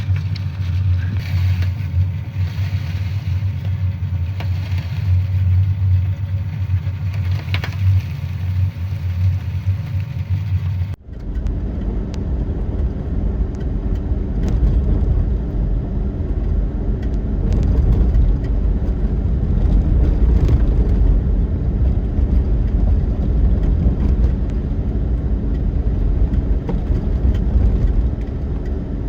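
A car running, heard as a steady low engine hum. After a sudden cut about a third of the way in, it becomes a deeper rumbling noise.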